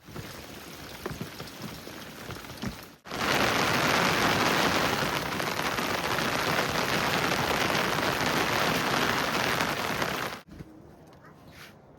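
Rain falling in a heavy monsoon downpour. It starts as a lighter patter with a few separate drops, then about three seconds in it jumps to a loud, dense, steady rush of heavy rain. This cuts off abruptly near the end.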